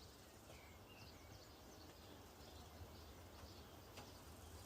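Near silence: quiet room tone with a faint low hum and a few faint bird chirps in the background.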